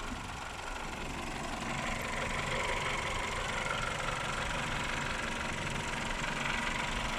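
Toyota 3ZZ-FE 1.6-litre four-cylinder engine idling steadily; the owner, fresh from a service, judges it to be working properly.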